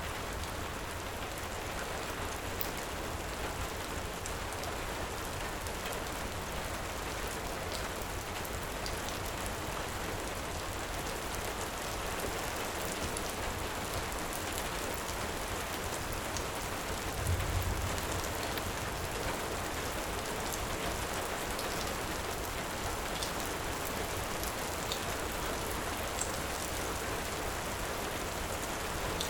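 Heavy rain falling steadily, with sparse faint crackles from a wood fire. A short low rumble swells and fades about two-thirds of the way through.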